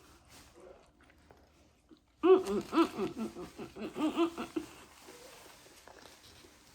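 Faint chewing and mouth clicks from eating a spicy chicken sandwich. About two seconds in, a couple of seconds of wordless voice sounds break in, with pitch that bends up and down.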